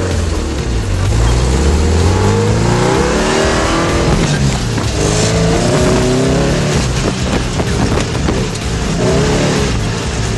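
Off-road race car's engine revving hard, its pitch climbing and dropping several times as it shifts through the gears, over a steady rush of tyre and wind noise.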